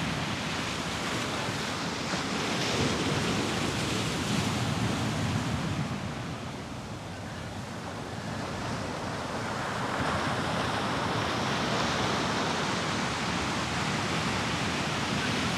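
Ocean surf washing onto a beach, a steady rush of breaking waves that eases for a few seconds in the middle and then builds again.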